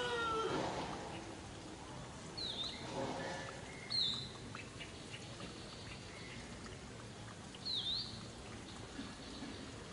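Three short bird chirps, each a quick dip and rise in pitch, over steady outdoor background noise. A rooster's crow trails off in the first half second.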